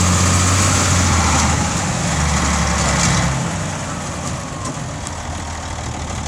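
Volvo A30C articulated dump truck's diesel engine running; its pitch drops about two seconds in and it turns quieter after about three seconds, settling toward idle.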